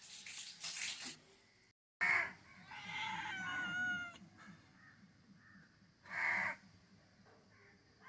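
Cat meowing: a loud short call about two seconds in, then a longer drawn-out meow falling slightly in pitch, and another short loud meow about six seconds in.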